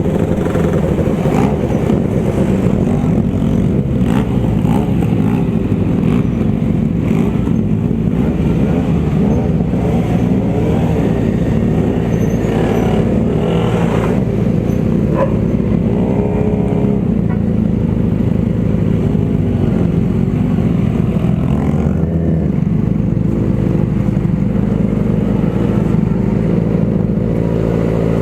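Motorcycle engines running steadily on the road, the engine note shifting a few times, with rising and falling revs in the middle.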